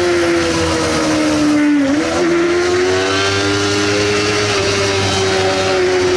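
Sportbike engine held at high revs, its note sagging slightly in pitch for about two seconds and then climbing back up and holding steady.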